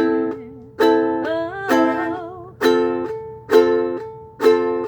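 Ukulele strumming chords in a steady rhythm, about one strong strum every second, each chord ringing out and fading before the next.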